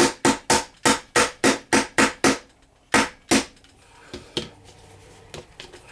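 Hammer striking a chisel into a toy treasure-dig kit block: a quick run of about nine sharp knocks, around three a second, then two more after a short pause and a few lighter taps near the end.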